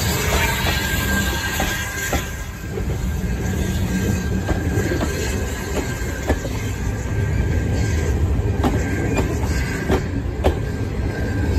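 Heritage railway passenger coaches rolling past behind a steam locomotive: a steady rumble with sharp wheel clicks over the rail joints about every second, and a thin steady wheel squeal.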